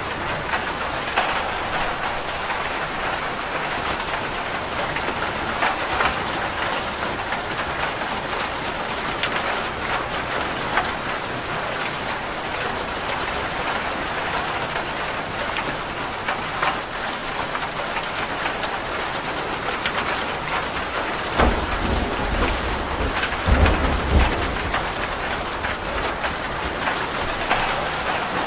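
Steady rain falling on a roof, with single drops ticking through it. About 21 seconds in a roll of thunder rumbles low for about three seconds.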